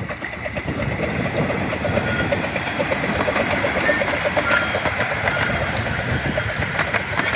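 15-inch gauge miniature railway train running on the track, its wheels clattering and clicking steadily over the rails.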